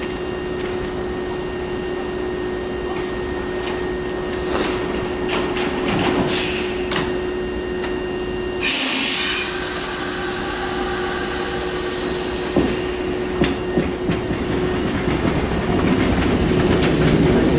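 Hankyu 3000-series electric train standing at the platform with a steady electrical hum, then a sudden loud hiss of compressed air about halfway through that fades away over a few seconds. A few sharp clunks follow, and near the end a motor whine starts rising in pitch as the train begins to pull away.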